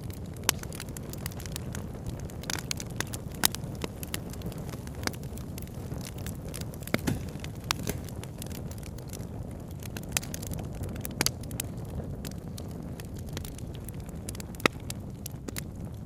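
Campfire crackling, with scattered sharp pops from the burning wood, over a steady low rush.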